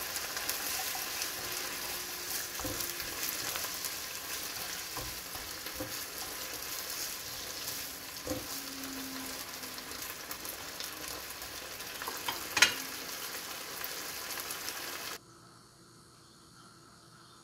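Dakbal (chicken feet) and sliced onions sizzling in red pepper sauce in a nonstick frying pan as they are stir-fried with chopsticks, with occasional sharp taps, the loudest about three-quarters of the way in. The sizzling cuts off suddenly near the end.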